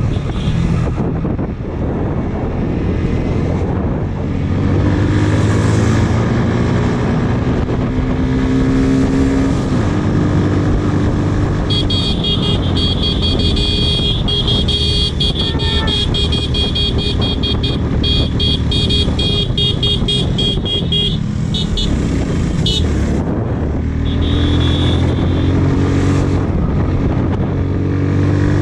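Motorcycle engine running under way, its pitch rising and falling as the rider works the throttle. A loud, high, rapidly pulsing shrill sound joins it for about nine seconds midway and returns briefly near the end.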